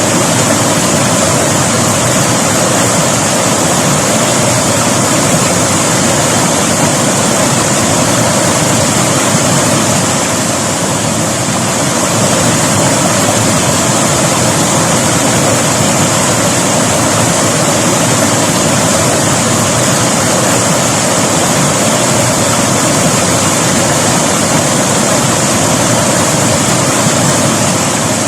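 River water rushing over rocks: a loud, steady roar of flowing water that holds even throughout.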